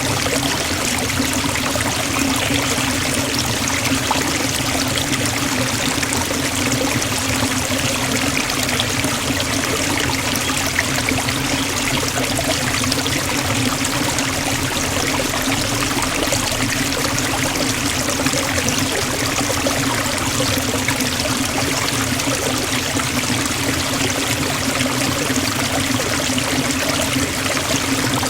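Waterfall splashing steadily into a forest pool, a constant dense rush of water.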